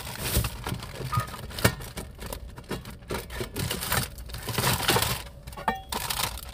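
Plates and kitchenware being handled and set down in a cramped space: a string of irregular light clinks, knocks and rattles with some rustling.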